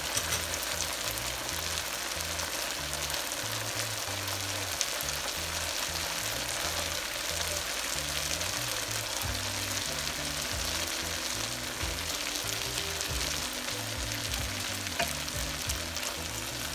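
Spice paste and oil sizzling steadily in a frying pan as hilsa fish steaks are laid into it.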